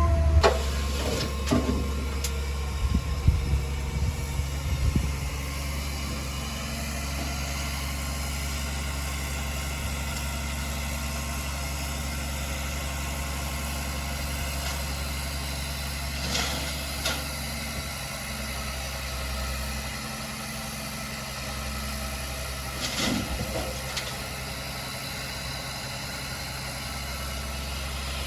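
Heavy diesel earthmoving machine engine idling steadily, with a few clanking knocks in the first several seconds.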